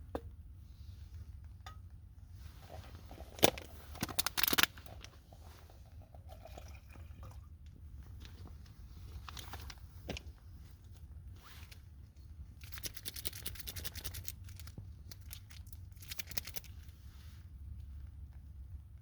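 Camp gear being handled at close range: scattered clicks and scrapes with crackling rustles, loudest in a sharp click and a burst of scraping about three to five seconds in, and again in longer stretches of scraping later on.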